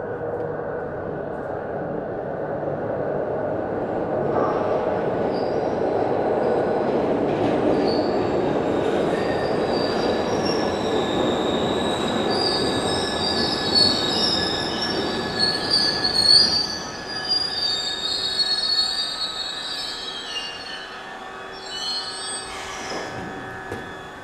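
Glasgow Subway train running through the tunnel: a steady rumble, joined about ten seconds in by high-pitched wheel squeal that rises and wavers, then fades as the train quietens near the end.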